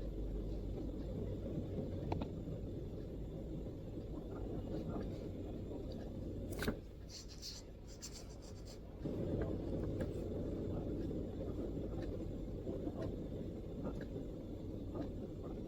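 MacBook keyboard being typed on: soft, scattered keystrokes over a steady low background rumble. About seven seconds in there is one sharper click, then a quick run of crisper keystrokes while the rumble drops away for about two seconds.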